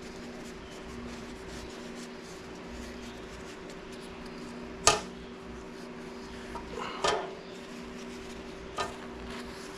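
Metal tools or parts clinking as they are handled and set down: a sharp clink about five seconds in, a short clatter about two seconds later and a lighter click near the end, over a steady background hum.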